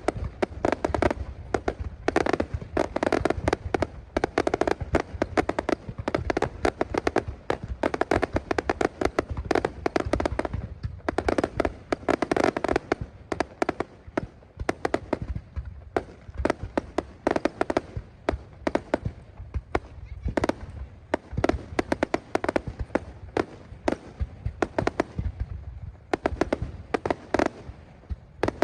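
Fireworks going off in a rapid crackling stream of sharp pops, heaviest in the first half and sparser toward the end.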